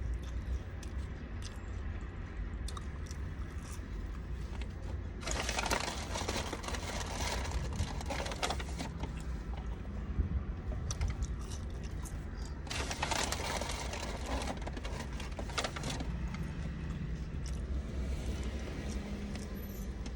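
Eating noises: close-up chewing and small clicks, with two spells of rustling packaging a few seconds each, over a steady low rumble.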